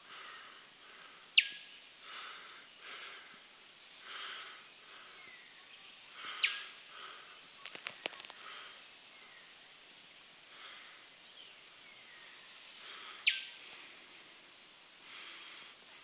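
Birds calling around a creek: three loud whistled calls, each ending in a sharp whip-like snap down in pitch, with softer calls in between. A short run of quick clicks comes about eight seconds in.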